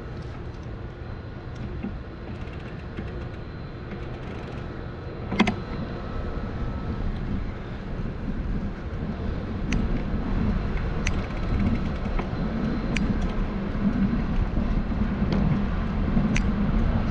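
Camera mount on a moving bicycle rattling over steady tyre and road rumble, with occasional sharp clicks, the loudest about five seconds in. The rumble grows louder toward the end.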